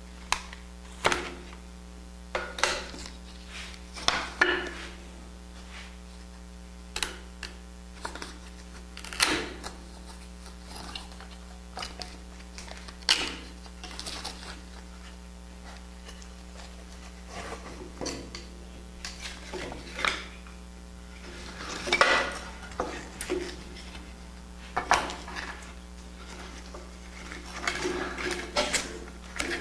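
Irregular knocks and clatter of sawn wooden pieces being handled and pulled apart, as the taped sections of a band-sawn cabriole leg blank are separated, over a steady electrical hum.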